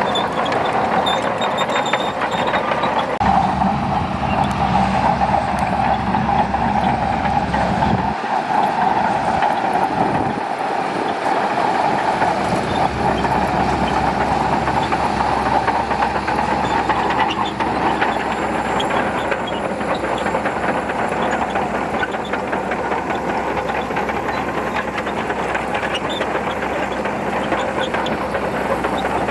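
Shantui DH17C2 crawler bulldozer working: its diesel engine runs steadily under load while the steel tracks clatter as it pushes sand.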